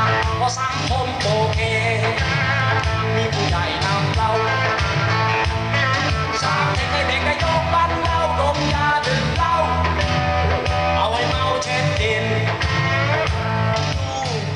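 Recorded music played from a vinyl record: a band with a strong bass line and a wavering lead melody, starting to fade out near the end.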